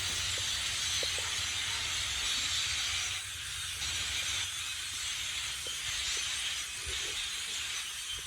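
Hundreds of blackbirds in a large flock calling and chattering at once, blending into a steady, dense hissing din, with a low rumble underneath.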